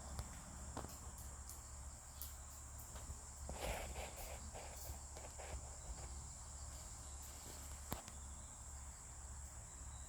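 Steady high-pitched trilling of insects, with a few sharp clicks and a short rustle about a third of the way in.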